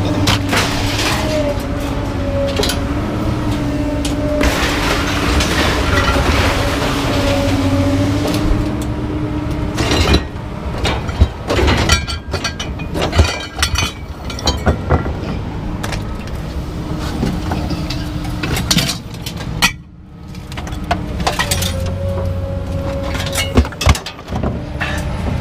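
A vehicle engine running steadily. For a few seconds in the middle it is broken by a run of sharp clanks and knocks as pieces of scrap metal are handled.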